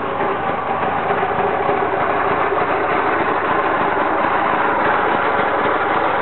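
Vespa 400 microcar's two-stroke twin-cylinder engine running steadily at idle.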